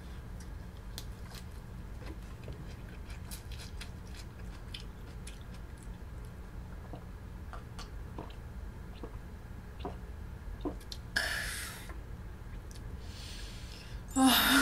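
Close-up mouth chewing of a bite of raw salmon wrapped in a leaf, with many small wet clicks. A couple of breathy exhales come after a drink, then a loud voiced outbreath right at the end.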